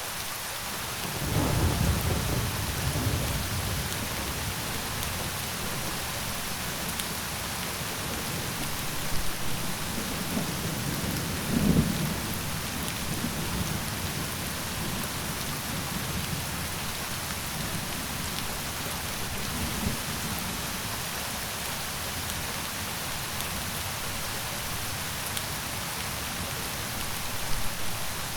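Steady rain falling, with low rolls of thunder rumbling under it: a strong roll about a second and a half in, another near the middle, and fainter ones later.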